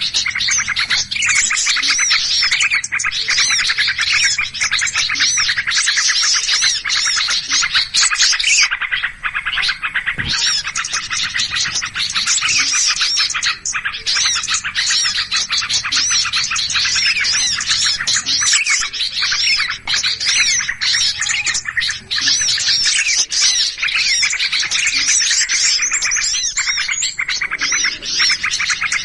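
Dense, unbroken chorus of many small songbirds chirping and squeaking over one another in agitated, excited calling: a bird-trapping lure recording of 'noisy' birds.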